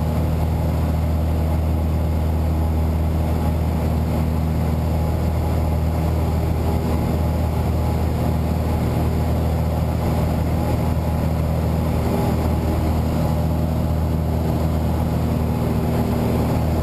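Light aircraft's piston engine and propeller running steadily at constant power, a low even hum with several steady tones.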